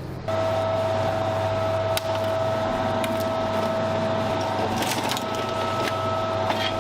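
Heavy shredding or crushing machinery running with a steady high-pitched whine over a low hum, with scattered sharp cracks and snaps. It starts abruptly about a third of a second in.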